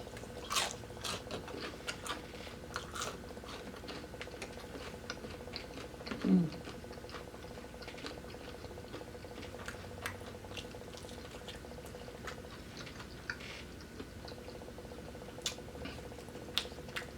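Close-miked chewing of fried chicken, with scattered small crunches and wet mouth clicks, and a brief low hum of the voice about six seconds in.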